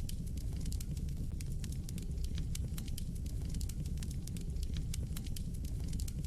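Wood fire burning in a fireplace: a steady low rumble of flames with many quick, irregular crackles and pops.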